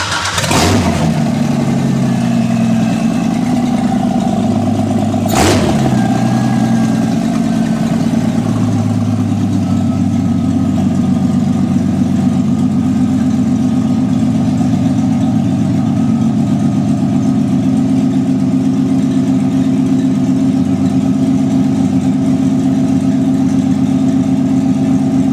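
A freshly installed 3.4-litre V6 with sequential fuel injection, in a 1969 MGB GT, idles on its very first run after the conversion, steady and even; the crew judges it 'sounds good'. A single sharp click comes about five seconds in, and the idle settles a little about nine seconds in.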